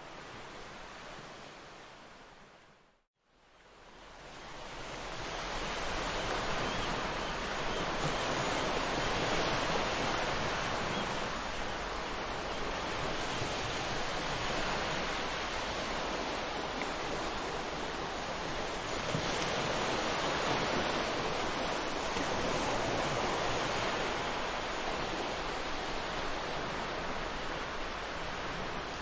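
Ocean surf washing on a beach as a steady rushing noise. About three seconds in it fades briefly to silence, then swells back up over the next few seconds.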